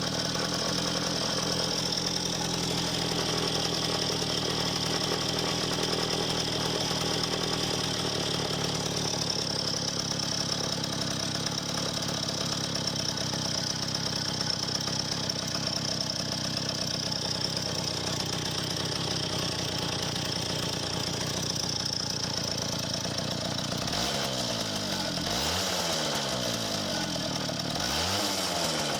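D-8 single-cylinder two-stroke bicycle engine with an electronic ignition, running steadily at a fast idle on its first start. Near the end it is revved up and let back down several times.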